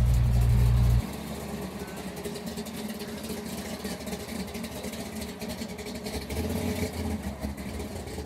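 A car engine running at a car show, with voices in the background. A loud low rumble cuts off suddenly about a second in.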